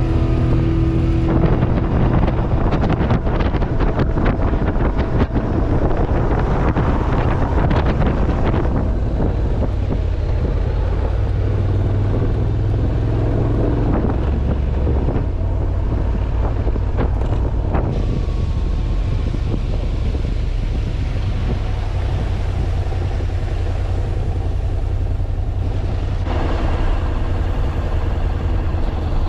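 Motorcycle riding at speed: heavy wind rush on the microphone over a steady low engine drone. Rock music cuts out about a second in.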